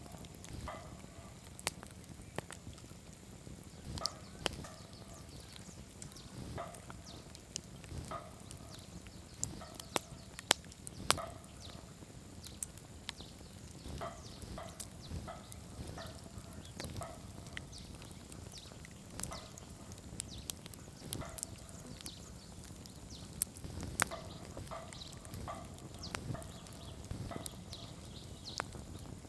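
Campfire crackling: wood snapping and popping in quick irregular clicks, with a few louder sharp pops, over a steady low rumble of the burning fire.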